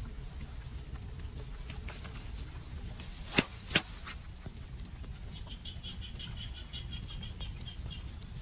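Outdoor ambience with a steady low rumble. Two sharp clicks come about a third of a second apart near the middle, then a small bird gives a rapid chirping trill for about three seconds.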